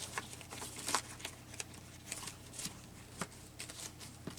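Scattered soft rustles and light taps, with a few sharper clicks, as paper and lace craft scraps are sorted through by hand.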